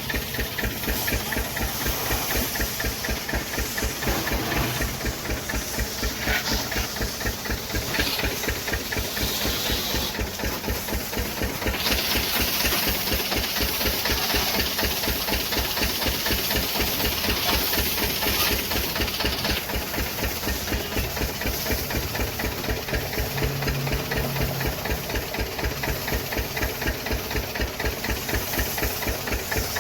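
High-pressure washer running, with a steady rapid pulse from its motor and pump and the hiss of its water jet. The hiss grows louder from about 12 to 20 seconds in.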